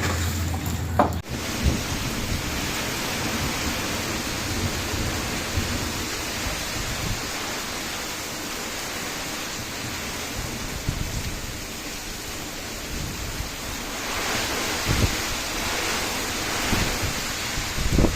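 Heavy rain pouring down in strong wind, a dense steady hiss that sets in suddenly about a second in, with uneven low rumbles of wind on the microphone and a few brief thumps.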